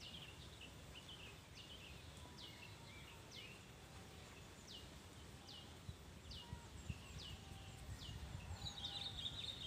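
A bird calling again and again: short high whistled notes that slide down in pitch, about one a second, with a brief buzzy chatter near the end. Faint rustling and handling noise underneath.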